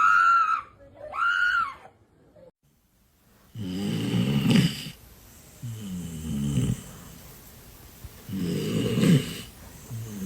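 Dog snoring loudly: three long, rattling snores about two seconds apart. Just before them come two short high-pitched cries.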